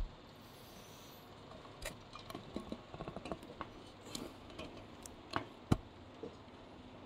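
Irregular small clicks and taps of handling work on a vacuum cleaner's parts, scattered and uneven, with one sharper knock near the end.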